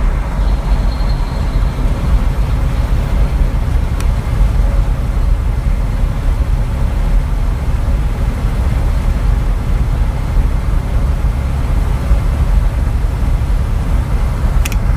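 Steady rumble of a truck driving on the road, engine and tyre noise without let-up, with a faint tick about four seconds in and again near the end.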